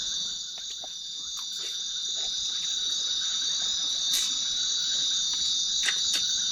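Night insect chorus, crickets or similar, keeping up a steady high-pitched trill, with a few faint clicks.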